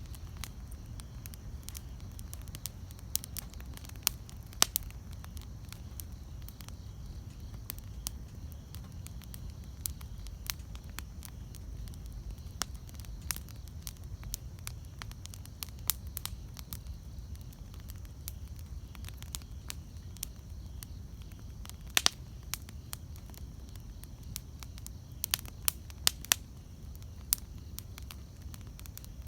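Wood campfire burning with a low steady rumble and irregular sharp pops and crackles, a few louder snaps standing out about a third of the way in and again near the end.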